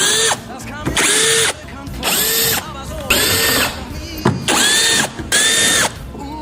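Power drill run in about six short bursts, each spinning up, holding a steady whine and winding down, like trigger pulls while driving fasteners out during front bumper removal.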